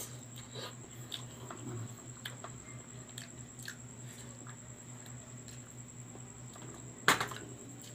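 A man chewing and biting roasted chicken eaten by hand, many small wet clicks over a steady low hum. One sharp knock about seven seconds in is the loudest sound.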